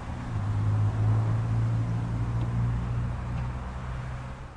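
Class 614 hydrogen fuel-cell train, a converted ex-ScotRail electric unit, running along the track: a steady low hum over a rushing noise. It grows a little in the first second, then slowly fades as the train moves away.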